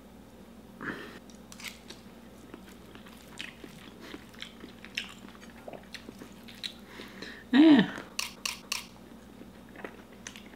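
Close-up chewing of raw ground-beef steak tartare, with soft mouth noises and light clicks of a fork against the plate. One louder mouth sound comes about three-quarters of the way through, followed by a few sharp clicks.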